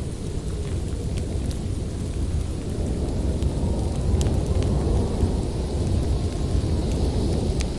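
Storm wind rumbling low and steadily, swelling a little midway, with a few sharp pops from a crackling wood fire.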